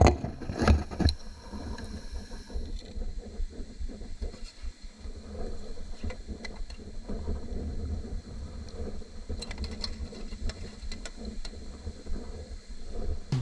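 Wind buffeting the microphone as a steady low rumble, with scattered small clicks and two louder knocks at the start.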